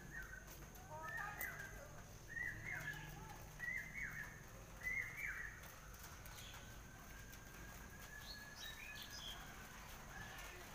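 Faint bird calls outdoors: a run of about five short, falling chirps, roughly one a second, over the first half, then only a quiet steady background.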